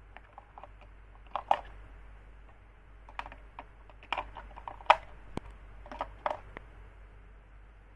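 Irregular sharp clicks and light knocks, about a dozen of them at uneven intervals and loudest about five seconds in, as of a small toy or its packaging being handled.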